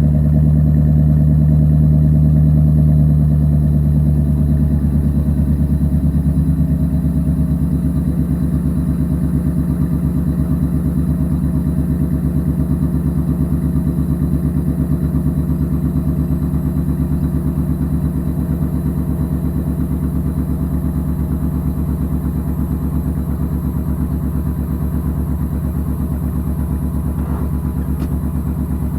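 1996 Chevrolet K1500 pickup engine idling just after a cold start, running steadily and gradually getting a little quieter as the fast idle settles.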